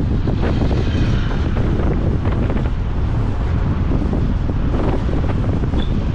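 Wind buffeting the microphone on a moving motorbike: a steady, heavy low rumble with vehicle noise under it.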